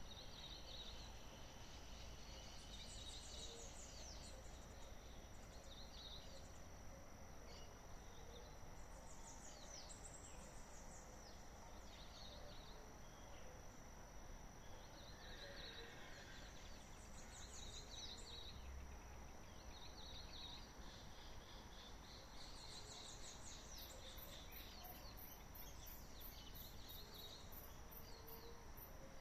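Faint natural ambience: birds calling, with short chirp phrases recurring every couple of seconds and some falling whistles, over a steady high insect drone. A rapid high insect ticking joins near the end.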